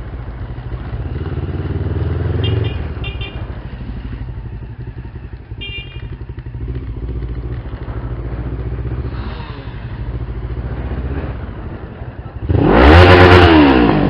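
Motorcycle engine running steadily at low revs, then revved hard once near the end, its pitch rising and falling back.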